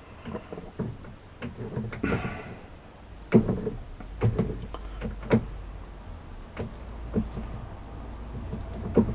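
Keyway being broached on a metal lathe by working the tool back and forth through the bore by hand: irregular scraping strokes and sharp knocks, the loudest about three and a half seconds in. A low steady hum comes in about three seconds in.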